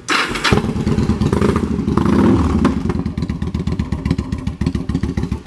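Yamaha V-Star 1100 Classic's V-twin engine with aftermarket exhaust pipes starting up. It catches about half a second in, revs once around two seconds, then settles into an idle with even exhaust pulses, a little louder than the stock pipes.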